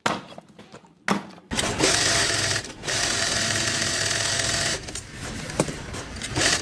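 Two knocks, then a small motor-driven tool running steadily for about three seconds before dropping to a quieter, uneven running.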